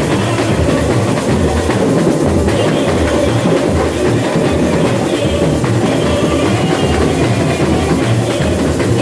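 A samba bateria, the drum section of a samba school, playing a steady samba rhythm: deep bass drum beats at an even pace under dense, continuous percussion.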